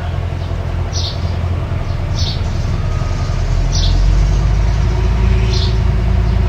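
Mini bulldozer's diesel engine running steadily, growing louder about halfway through as it takes on more load or revs. Short high chirps repeat about every second and a half over it.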